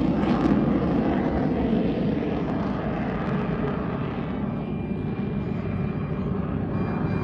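Lockheed U-2 Dragon Lady's single jet engine, about 17,000 pounds of thrust, heard as a steady rumble from a climbing jet. The sound fades slowly as the jet pulls away.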